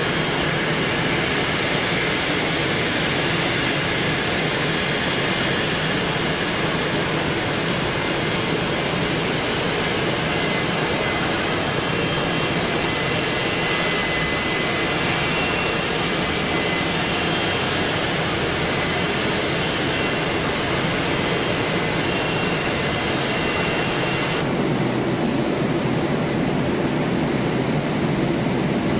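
Jet airliner engines running: a steady roar with several high whining tones over it. About 24 seconds in the whine cuts off abruptly and a broader roar carries on.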